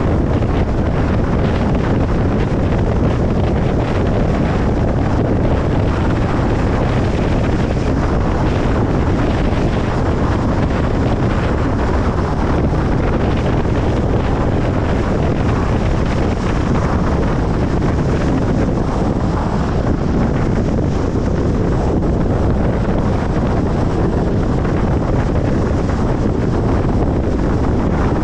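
Steady road noise of a car driving: tyres and wind making an even, unbroken rumble, strongest in the low end.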